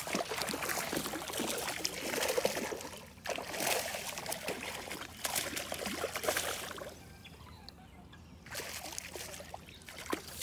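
Water splashing and trickling in irregular bursts as a hooked bass is fought toward the bank, with a quieter stretch about seven seconds in.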